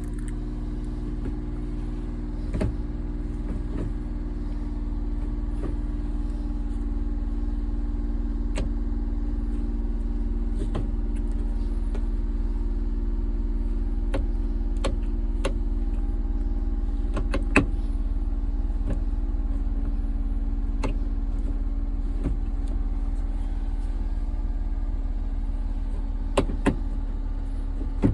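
Honda Acty kei truck's small three-cylinder engine running steadily, with scattered sharp knocks and clicks throughout. The loudest knock comes about two-thirds of the way through, and there are a few more near the end.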